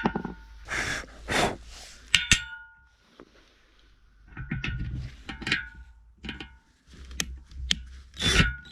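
Handling noise with several sharp metal clinks that ring briefly, as metal fence posts and tools are knocked and moved. The clinks come in a cluster about two seconds in and another around five to six seconds in. The drill is not running.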